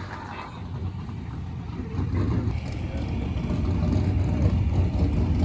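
A vehicle engine running nearby with a low rumble, growing louder over the first couple of seconds and then holding steady.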